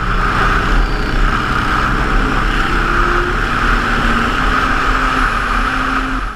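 Kawasaki KLR650's single-cylinder engine running steadily while riding, under heavy wind noise. It cuts off abruptly near the end.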